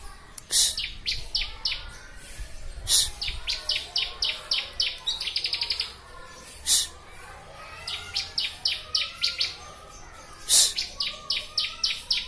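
Bar-winged prinia (ciblek) singing: repeated runs of short, sharp high notes, about six to eight a second. A few louder, higher calls break in, and there is a quick trill about five seconds in.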